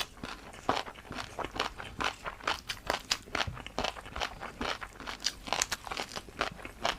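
Close-miked chewing of crunchy noodles: an irregular run of crisp crunches, several a second.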